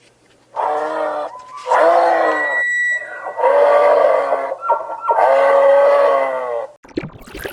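An animal calling four times, each call about a second long and held on a steady pitch. A short splashy noise starts just before the end.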